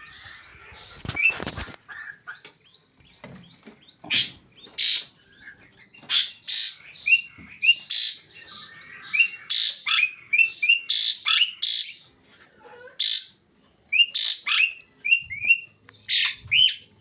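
Javan pied starlings (jalak suren) calling: a busy string of harsh squawks and short rising chirps in quick, irregular succession, thickest in the second half.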